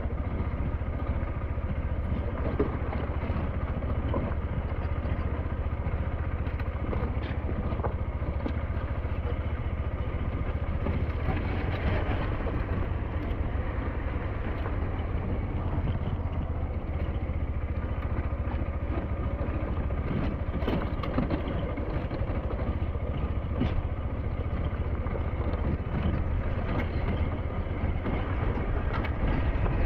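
SYM NH T 200 motorcycle engine running steadily under way, with scattered short clicks and knocks over the top.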